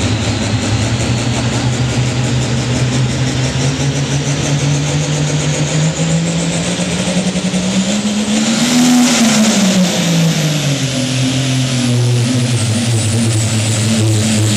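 Turbocharged diesel pickup truck pulling a sled under full load. The engine climbs slowly in pitch with a high turbo whistle rising above it, is loudest about nine seconds in, then drops back to a lower steady note as the run ends.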